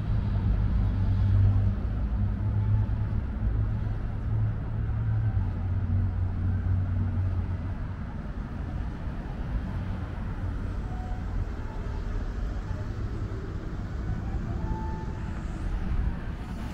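City street traffic: a motor vehicle's engine runs close by with a low, steady hum that fades away about halfway through, over a general background of street noise.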